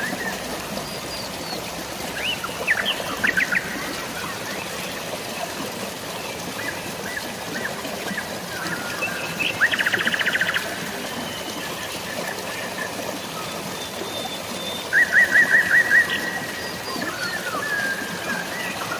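Birds chirping over a steady hiss of drizzling rain and flowing water. There is a quick series of notes about three seconds in, a fast trill near the middle, and another rapid run of notes near the end.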